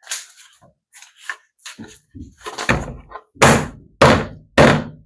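Plastic pool-ladder parts knocked against each other: a few light clicks and rattles, then from about halfway in a run of heavy thuds a little over half a second apart. The thuds are a handrail being banged to force it into a ladder section where it is stuck.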